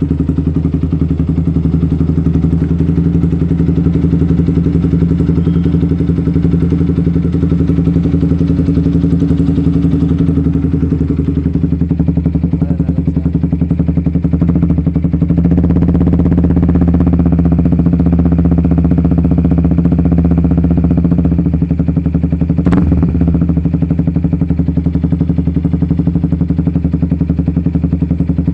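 Yamaha Vixion's single-cylinder 150 cc engine idling steadily through an aftermarket exhaust. It grows a little louder for several seconds past the middle, and there is one sharp click about three-quarters of the way in.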